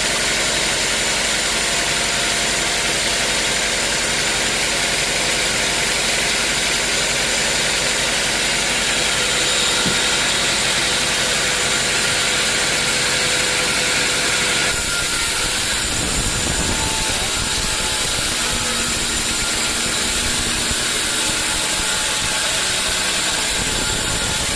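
Sawmill machinery running steadily, a mechanical drone with a strong hiss. About fifteen seconds in the sound changes abruptly and a low rumble joins it.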